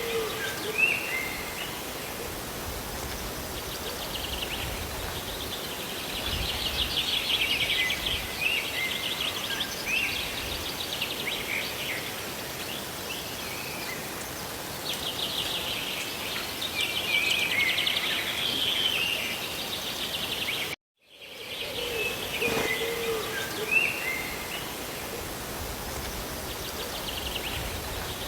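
Steady hiss of rain and falling water with birds chirping and trilling over it. The sound cuts out for a moment about three quarters of the way through, then starts over.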